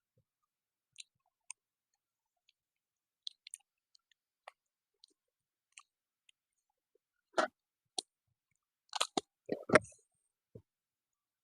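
Close-up eating sounds: scattered soft mouth clicks and chewing, with a run of louder clicks and knocks about two-thirds of the way through.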